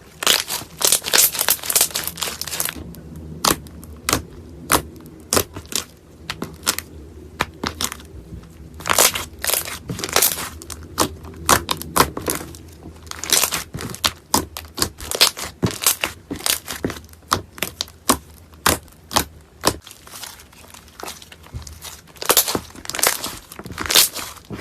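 Slime being squeezed and pressed, giving sharp crackling pops and crunches. They come in dense runs: near the start, around ten seconds in, and again near the end.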